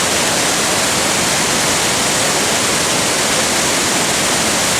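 Waterfall in full monsoon flow: a loud, steady, unbroken rush of falling water.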